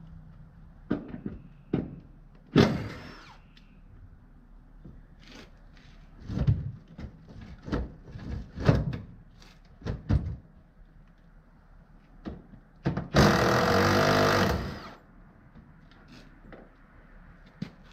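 Scattered metal clanks and knocks of tools working on a pickup truck's seats as they are unbolted for removal. A loud, rattling burst of noise lasting about a second and a half comes near the end.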